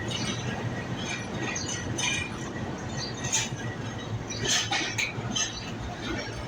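Train moving on the track: a steady low rumble with scattered short metallic clinks and clicks.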